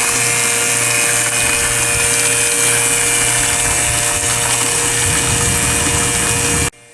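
Electric water pump running steadily, a loud whirring whine over a low hum, pumping rainwater out of a drum; the sound cuts off abruptly near the end.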